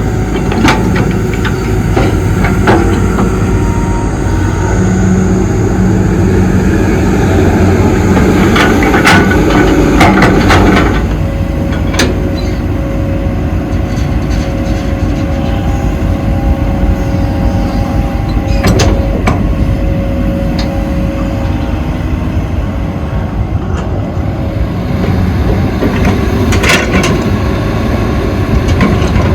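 Hydraulic excavator at work: its diesel engine runs steadily under load, with a steady hydraulic whine through the middle and scattered sharp knocks from the bucket and arm.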